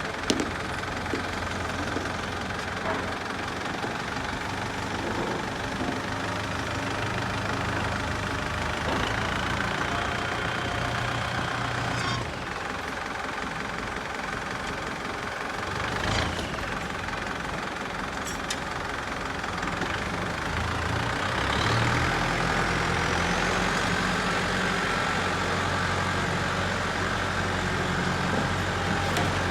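Massey Ferguson MF4708 tractor's diesel engine running at idle, picking up revs about two-thirds of the way through, with a few sharp metallic knocks.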